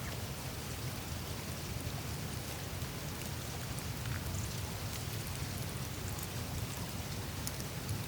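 Melting glacier ice surface: a steady wash of meltwater trickling and dripping, with small streams running through the ice, over a low steady rumble and scattered faint ticks.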